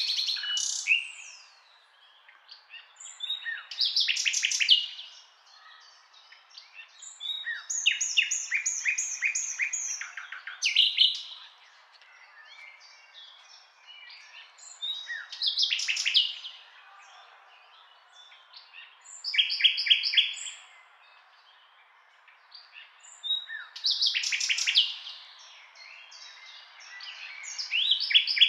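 Birds singing: short phrases of high chirps and quick repeated notes, one every few seconds, over a faint steady outdoor background.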